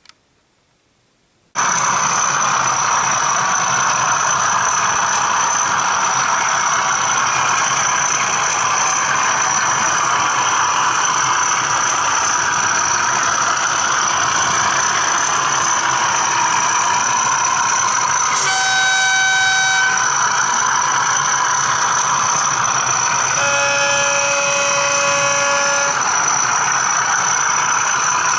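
Model Class 37 diesel locomotive's ESU sound decoder playing the diesel engine running, cutting in abruptly about a second and a half in, with a high steady whine over it. Two horn blasts sound over the engine: a shorter one about two-thirds of the way in, then a longer two-tone one, lower in pitch, near the end.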